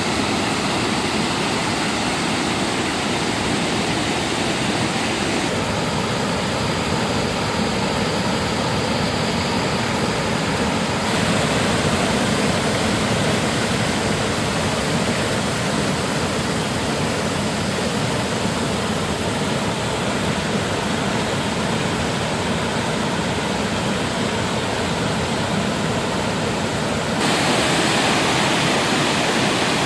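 Waterfall: a loud, steady rush of falling water, its tone shifting suddenly three times.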